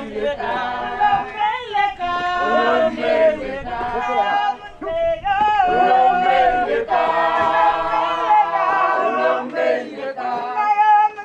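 A group of voices singing a cappella together, several parts at once with long held notes.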